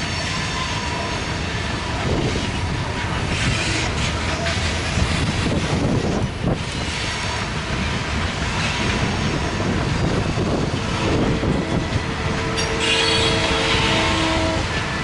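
Covered hopper cars of a freight train rolling past: a steady rumble of wheels on rail, with a few sharp knocks in the middle and squealing tones from the wheels starting about two-thirds of the way in.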